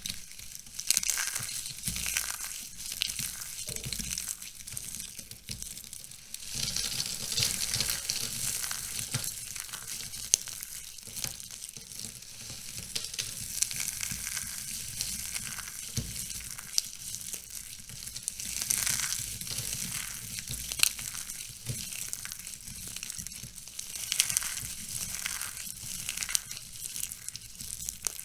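Dry, crispy soap being crushed, a continuous crisp crackling made of many small snaps, with louder clusters of crunching now and then.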